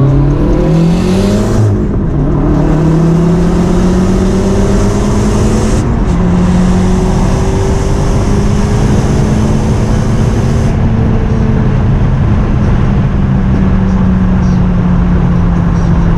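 VW MK4 Jetta's turbocharged 1.8T four-cylinder, fitted with a GT28R turbo on raised boost, pulling hard through the gears. The engine note climbs, drops at shifts about two and six seconds in, and climbs again under a high hiss. The hiss stops at about eleven seconds, and the pitch then levels off and slowly falls.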